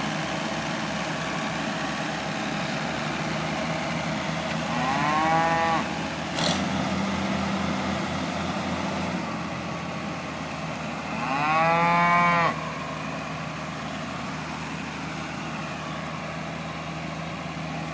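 Cows mooing: two long calls, each rising then falling over about a second and a half, with a third starting at the very end, over a tractor engine running steadily. A single sharp click comes about six and a half seconds in.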